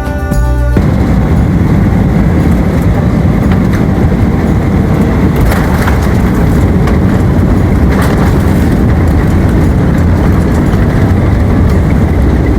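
Steady, loud low rumble of a vehicle in motion, following a brief tail of music that ends a little under a second in.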